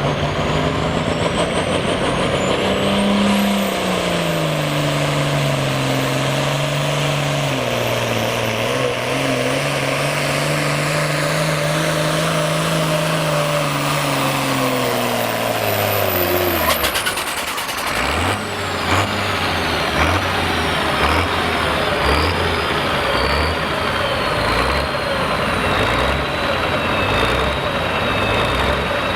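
Hot farm pulling tractor's turbocharged diesel at full power on the pull, its pitch sagging and recovering, with a high whistle riding over it. About 17 seconds in it throttles back sharply, and it then runs at a slow, lumpy idle.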